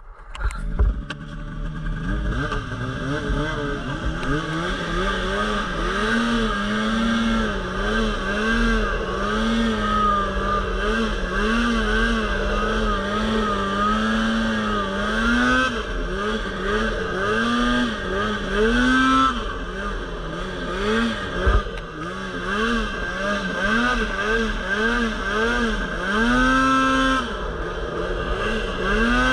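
Polaris RMK Pro 800 two-stroke snowmobile engine opening up right at the start, then running hard under throttle, its pitch rising and falling over and over as the rider works the throttle through deep powder.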